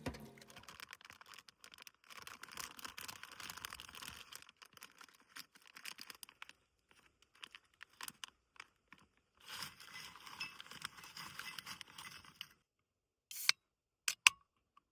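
Rustling and crinkling of something being handled, in two stretches, then a few sharp clicks near the end.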